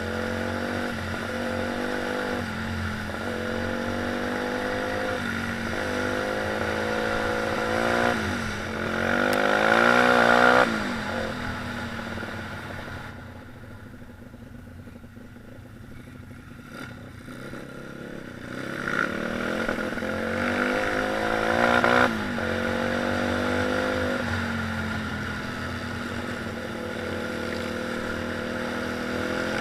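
Pit bike's small single-cylinder four-stroke engine being ridden, its revs rising and falling with throttle and gear changes. It is loudest at high revs about ten seconds in and again around twenty-two seconds, and eases off to a quieter stretch in between.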